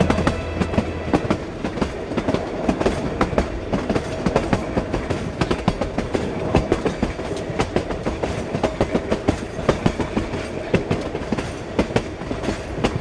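Passenger train running along the track, its wheels clattering over the rails in a fast, uneven stream of clicks, over a steady running noise with a faint hum.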